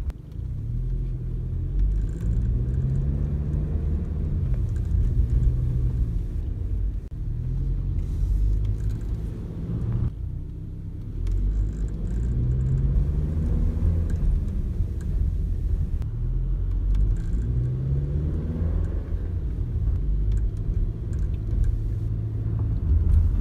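Inside the cabin of a Toyota Innova Touring Sport petrol automatic while driving: a steady low road and engine rumble, with the engine note rising and falling four times as the car accelerates and the automatic shifts, and a few faint light ticks.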